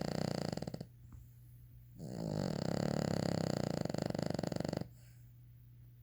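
Sleeping dog snoring: one snore trails off within the first second, and a longer snore of almost three seconds begins about two seconds in.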